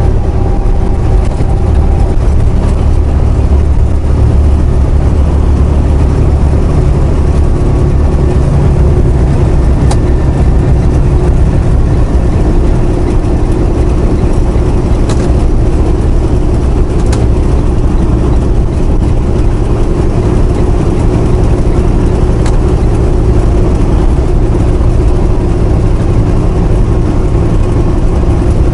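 Semi truck driving down the highway: a steady, loud, low engine and road rumble, with a few light clicks.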